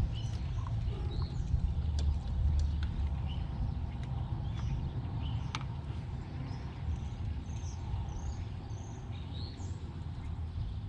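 Small birds chirping repeatedly over a steady low rumble of outdoor background noise, with a few sharp light clicks.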